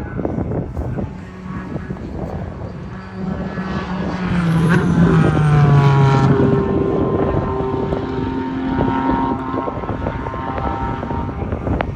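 Track car passing at speed: the engine note builds to its loudest about five seconds in, and its pitch drops as the car goes by. A further engine note carries on after it.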